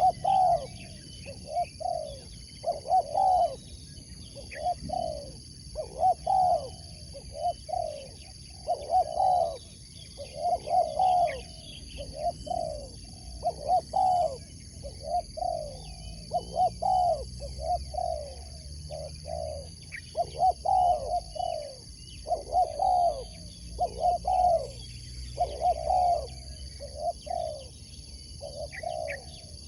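Spotted dove (tekukur) cooing over and over, its song coming as a steady run of short low coos, about one to two a second.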